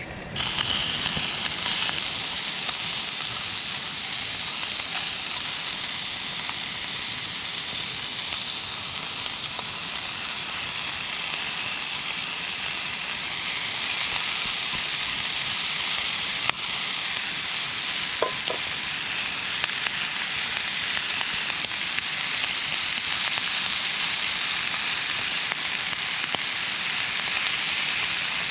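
Food sizzling as it fries in a pan, a steady hiss that starts abruptly, with a single sharp click partway through.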